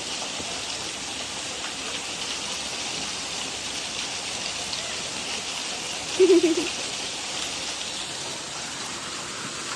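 Steady rush of running water, an even hiss. About six seconds in, a short, loud pitched sound cuts through once.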